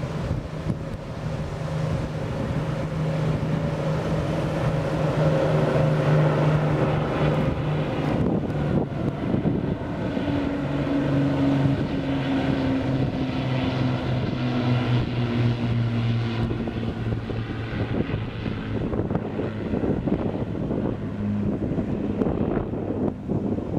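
Avro Lancaster bomber and two Spitfires flying past, the drone of their propeller engines, the Lancaster's four Rolls-Royce Merlin V12s among them, swelling and then dropping in pitch about eight to ten seconds in as the planes pass and draw away. Wind buffets the microphone.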